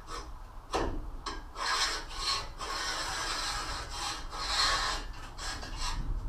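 Rasping, scraping strokes against a hard surface, each lasting about a second, with a sharp knock about a second in.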